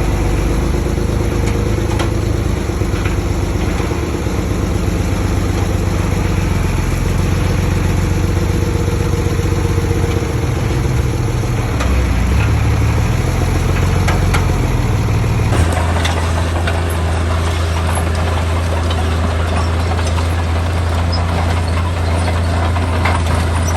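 Heavy diesel engine of construction machinery running, its pitch rising and falling under changing load. About two-thirds of the way through the sound changes abruptly to a steadier, deeper engine drone.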